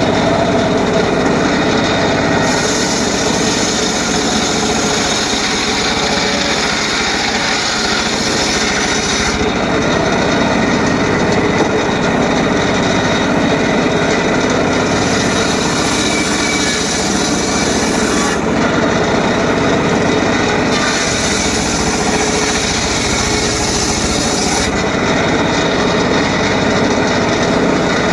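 Homemade circular saw running steadily while cutting short pieces of teak wood. A high hiss drops out and returns every several seconds.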